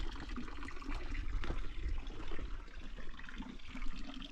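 Water running and splashing, with many small irregular splashes and trickles.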